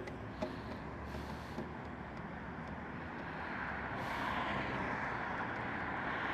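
Motorcycle engine running at a standstill in traffic, a few clicks near the start, then a rush of traffic and wind noise that grows louder from about three seconds in.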